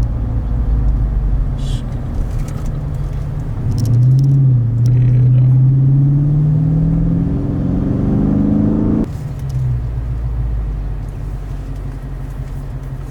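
Dodge Scat Pack's 6.4-litre HEMI V8 exhaust while driving: a steady drone, then about four seconds in the engine pulls harder with the pitch climbing for roughly five seconds, before dropping off suddenly to a steady, lower cruise.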